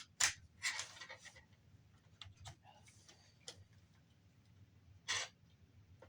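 Scattered clicks and light knocks from the parts of a Blu-ray player being handled during disassembly, with a short scraping rustle about five seconds in.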